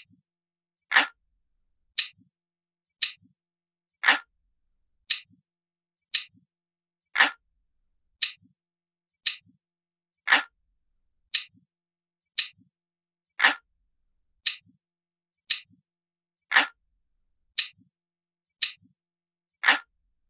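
Glass-like clock ticking sound effect: crisp, sharp ticks about once a second with silence between, every third tick louder and deeper.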